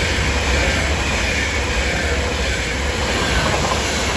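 Class 390 Pendolino electric train passing through at speed: a loud, steady rush of wheel and air noise over a low rumble, with a faint whine that slowly drops in pitch.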